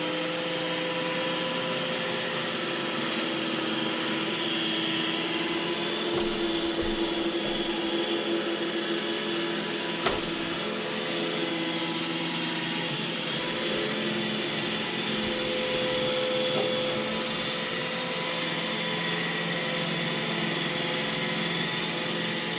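iRobot Roomba E6 robot vacuum running: a steady motor whine over the hiss of its suction and brushes, with a single click about ten seconds in.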